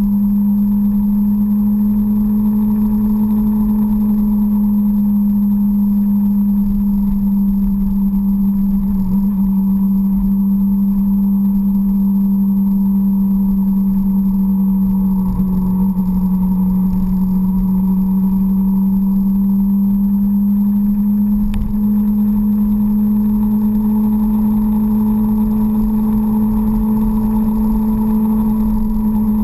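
Sport motorcycle engine running at a steady cruising pace, heard close from the bike carrying the camera, over a low rush of wind and road noise. The engine note holds nearly level, dipping slightly a few times.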